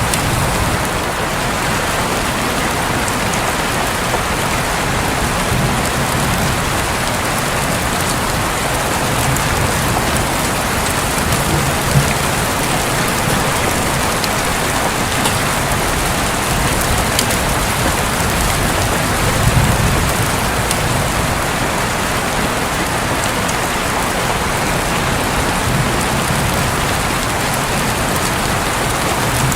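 Steady rain falling on a roof, with a few low rumbles of distant thunder swelling and fading.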